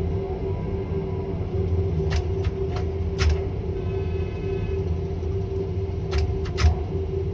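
Tower crane machinery running with a steady hum and low rumble. Sharp clicks come in two clusters, a few about two to three seconds in and three more about six seconds in.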